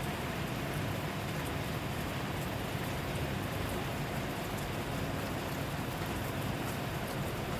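Steady rain falling: an even hiss with a deeper rumble underneath.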